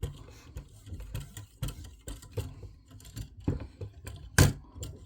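Quick back-and-forth strokes of a KME strop loaded with diamond emulsion along a fillet knife's edge: a run of light scrapes and clicks a few tenths of a second apart, with one louder knock near the end.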